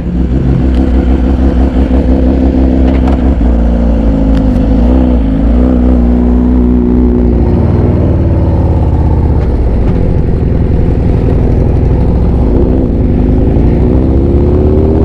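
Motorcycle engine running while riding. It drops in pitch about eight seconds in, then rises steadily from about thirteen seconds in as the bike accelerates.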